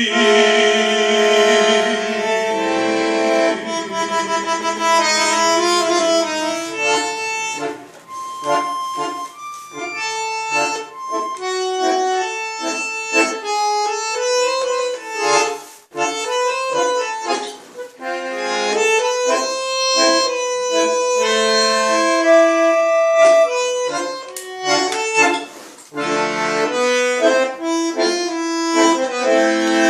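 Accordion playing an instrumental melody of quick notes over chords, with a held chord at the start and again near the end and a brief break about halfway through.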